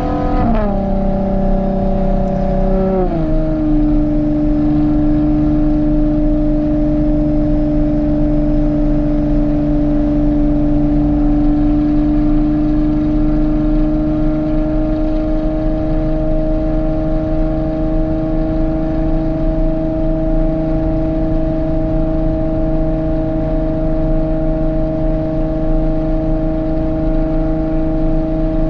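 Ferrari Purosangue's V12 engine through a Novitec race exhaust: the engine pitch drops sharply twice near the start as it shifts up, then it runs at a steady, slowly rising pitch under a light, even throttle.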